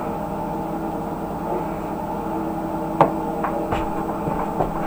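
Steady mechanical hum from a propane delivery truck's engine and pump running while it fills a tank, with a few light clicks about three to four seconds in.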